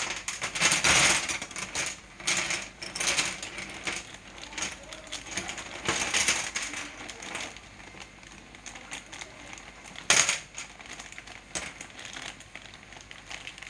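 Irregular clicking and clattering of small hard objects, such as tools and parts handled on a workbench, with one louder knock about ten seconds in.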